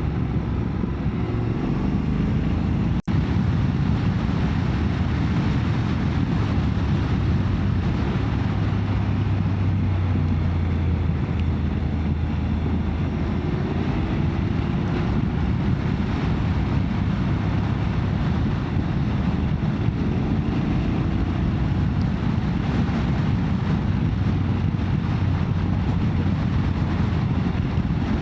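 Motorcycle riding along with wind rushing over the microphone, and the engine's pitch gently rising and falling. The sound cuts out for an instant about three seconds in.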